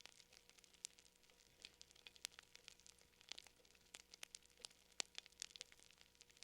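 Faint wood fire crackling: irregular sharp pops and snaps, several a second, with one louder pop about five seconds in.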